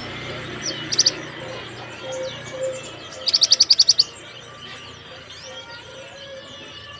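Crimson sunbird (sepah raja) singing its rapid 'tembakan' phrase. A short burst of high sharp notes comes about a second in, then a fast run of about ten loud, high, sharp notes around three to four seconds in, with fainter chirps in between.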